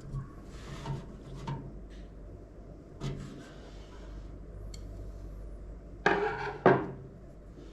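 Hands handling computer parts and hardware, with light clicks and rubbing, then two louder clattering knocks about six seconds in.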